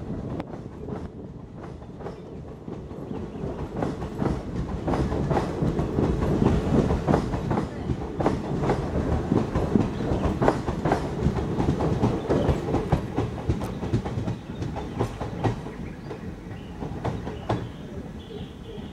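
Passenger train coaches rolling past on the track below, wheels clicking over rail joints over a steady rumble. It is loudest about midway and eases as the last coach moves away.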